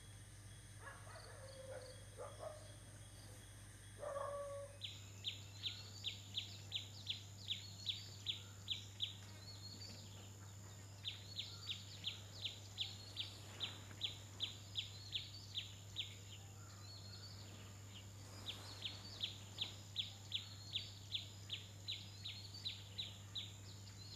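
A bird calling in runs of short, sharp, high chirps, about three a second, repeated three times. They start about five seconds in, over a low steady hum. Before the chirps begin there are a few faint lower falling animal calls.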